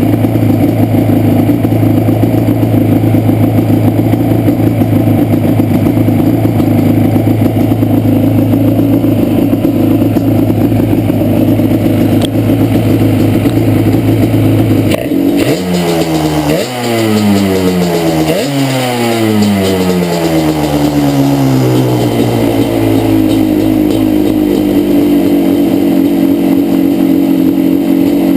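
Yamaha Banshee's two-stroke twin-cylinder engine idling steadily, then blipped a few times in quick succession about halfway through, each rev rising sharply and falling back before it settles to idle again. It has a bad misfire on the left cylinder, whose pipe stays cold at idle.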